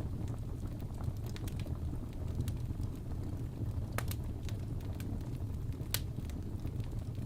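Wood fire burning in a fireplace: a steady low rumble of flames with scattered sharp crackles and pops from the logs, the loudest pops about four and six seconds in.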